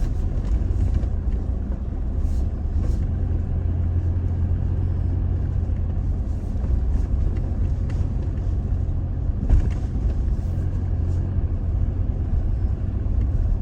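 Toyota Tacoma pickup driving slowly along a rough dirt trail in two-wheel drive: a steady low engine and tyre rumble, with a few brief knocks and rattles over bumps, the loudest about nine and a half seconds in.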